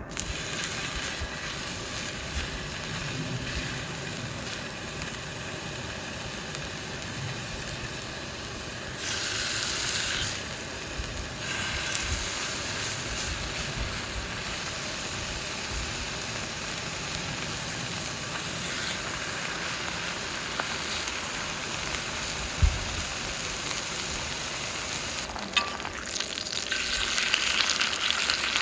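Food frying in a pan with a steady sizzle, louder for a couple of seconds about nine seconds in and again near the end. A single sharp knock comes partway through.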